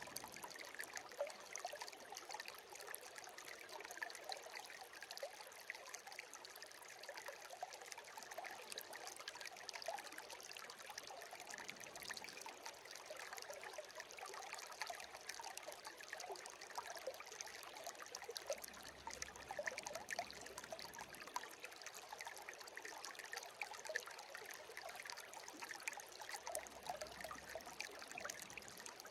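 Shallow stream's water babbling and trickling steadily, a light, fine-textured rush with almost no low rumble.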